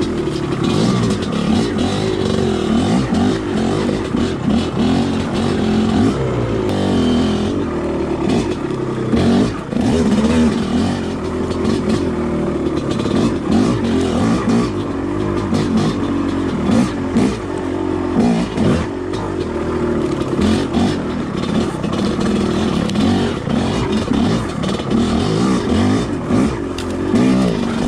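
Two-stroke dirt bike engine revving up and down constantly as it is worked through technical trail, with scattered knocks and clatter.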